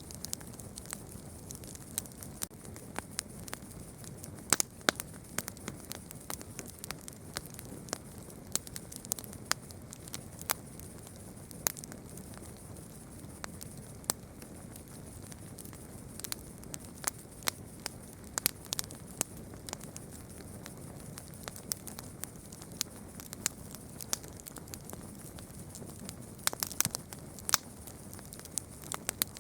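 Campfire crackling: irregular sharp pops and snaps over a low, steady rush of burning wood, with a quick run of pops near the end.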